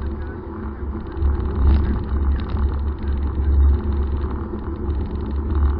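Car driving along: a steady low rumble of engine and road noise that swells and eases a few times.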